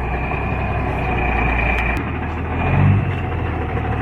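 Loaded logging truck's engine running steadily, with a thin steady whine above it; the low drone shifts about halfway through.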